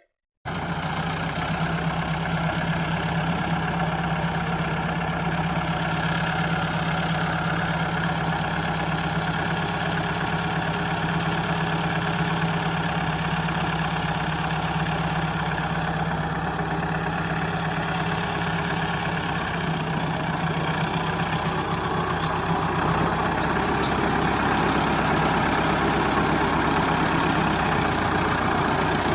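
A mini DIY model tractor's motor running steadily with an engine-like drone, getting a little louder in the last several seconds.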